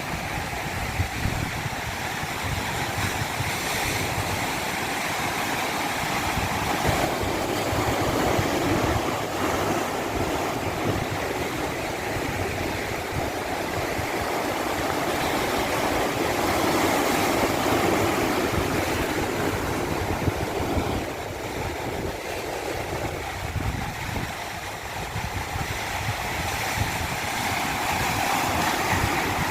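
Water rushing down a stream cascade: a steady, full noise that swells gently and eases off a little in the second half.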